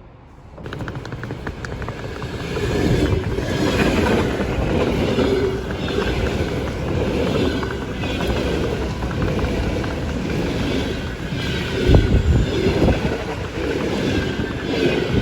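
Electric commuter train running past a station platform, its noise rising sharply about half a second in and staying loud, with a regular clatter of wheels over rail joints about once a second and a sharp low thump about twelve seconds in.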